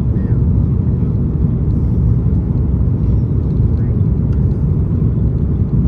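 Steady low rumble of an Airbus A330-200 airliner in flight, engines and airflow heard inside the passenger cabin.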